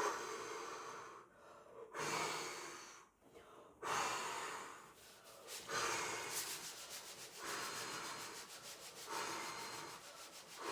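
A person huffing and puffing: about six long, breathy blows roughly two seconds apart, each starting strong and fading, voicing the wolf trying to blow the house down.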